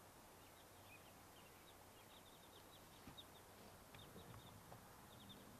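Near silence outdoors, with faint, scattered high chirps of birds, many short notes.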